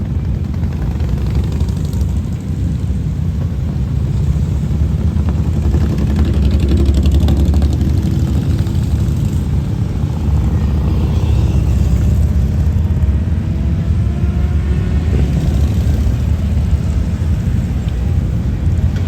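Motorcycle engines of a procession running steadily in a deep continuous rumble, with faint engine notes sliding up and down in the middle as bikes go by.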